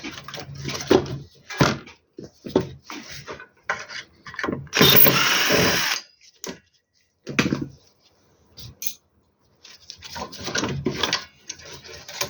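Tools and metal parts knocking and clicking irregularly as an inverter is taken apart, with a loud rushing burst lasting about a second near the middle.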